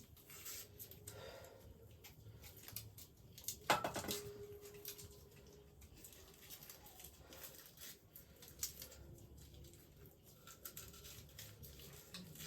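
Knife cutting ginger by hand: irregular light clicks and scrapes, with one sharper knock about four seconds in.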